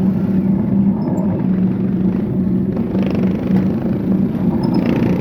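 Steady rumble of a road ride in traffic, with a low hum that wavers and breaks off every second or so.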